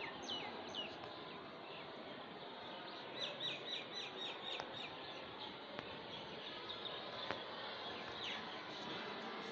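Small birds chirping in short, falling chirps, with a quick run of about eight chirps a few seconds in and a few single chirps elsewhere, over a steady outdoor background hiss.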